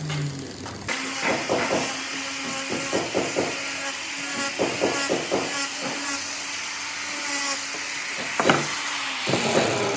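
Woodworking power tool running with a steady hiss and faint hum, over which come several quick clusters of light taps on wood and one sharper knock late on.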